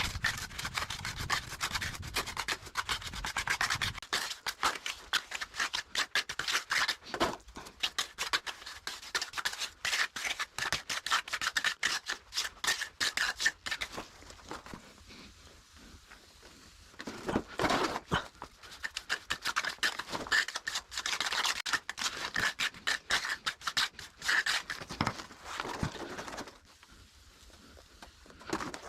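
Plastering trowel spreading and smoothing cement mortar in quick, repeated scraping strokes, pausing for a few seconds about halfway and again near the end.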